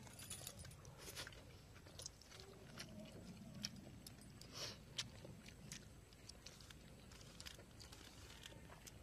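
Faint sounds of eating rice by hand from a steel plate: soft chewing with small clicks scattered throughout.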